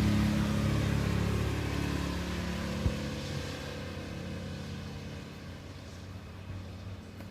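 A motor vehicle going past on a rain-wet street and fading away, its engine hum and tyre hiss dying down over the seconds. One sharp click about three seconds in.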